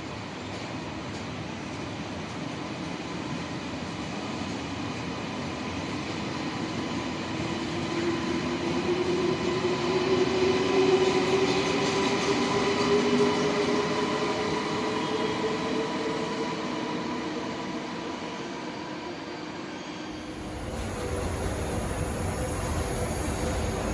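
A high-speed TGV train running past, its rumble building to a peak about halfway through and then fading, with a slowly rising whine over it. Near the end the sound changes abruptly to a deeper train rumble.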